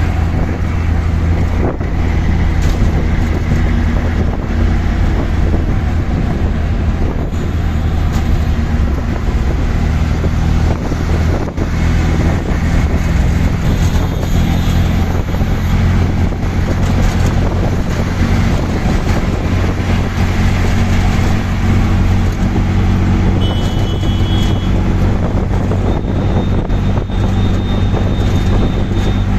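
Auto rickshaw's small engine running steadily under way, heard from the passenger seat, with road and traffic noise around it. A few brief high tones come in around the middle and near the end.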